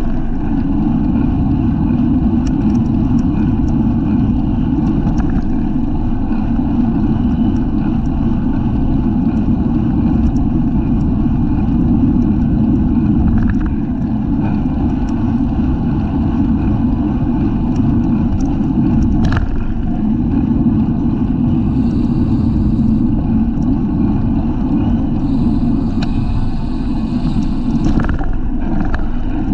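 Steady low rush of wind and road noise on the microphone of a camera mounted on a racing bicycle as it is ridden, with one sharp click about two-thirds of the way through.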